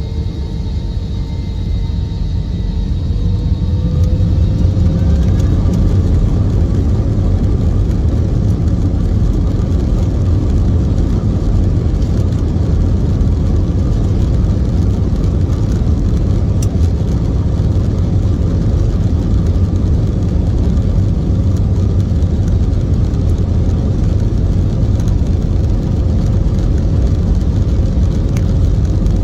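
Jet airliner engines spooling up for takeoff: a whine rises in pitch over the first few seconds as the sound grows louder, then settles into a steady, loud low roar at takeoff thrust.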